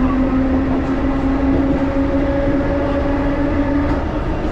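1938 Tube Stock train running, heard from inside the carriage: a steady low rumble of wheels on the track under a motor whine that rises slightly in pitch and dies away about four seconds in.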